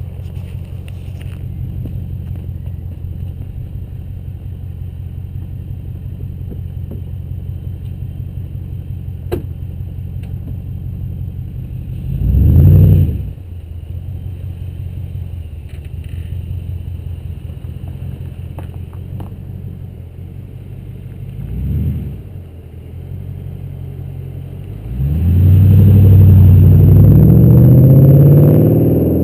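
Chrysler 300 SRT-8's Hemi V8 through a Magnaflow exhaust, idling with a deep, lumpy rumble. It is blipped hard once about halfway through, more lightly a little later, and near the end revved up and held high for several seconds before easing off.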